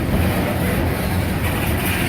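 Freight cars of a slow CSX manifest train rolling past, a steady noise of wheels on rails.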